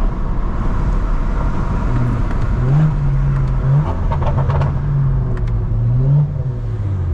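Straight-piped BMW 335i (E92) with its N55 turbocharged straight-six pulling under acceleration: the engine note climbs about two and a half seconds in, holds, climbs again and then falls away near the end. A few sharp crackles come in the middle.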